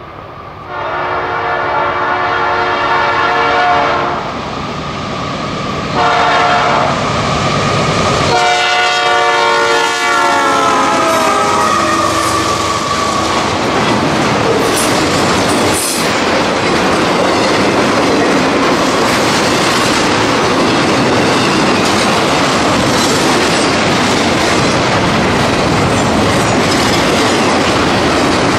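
BNSF freight locomotive's air horn sounding a long blast, a short one and another long one, the last dropping in pitch as the locomotive passes. Then the steady rumble and clickety-clack of double-stack intermodal cars rolling by at speed.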